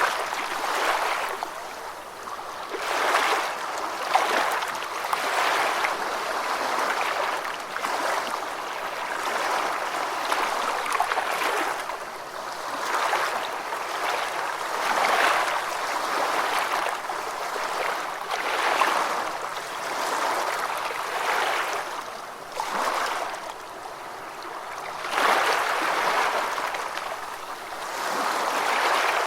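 Ocean waves washing in, the surf swelling and easing every few seconds.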